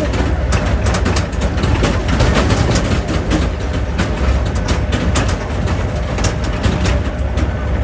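Tractor engine running with a steady low rumble, with many rattles and knocks.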